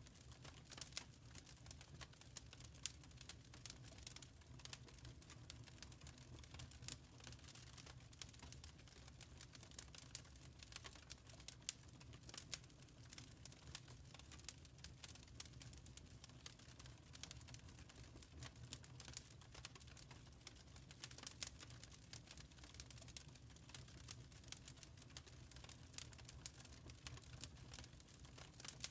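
Wood fire crackling in a fireplace: frequent small snaps and pops at irregular intervals over a low, steady rumble.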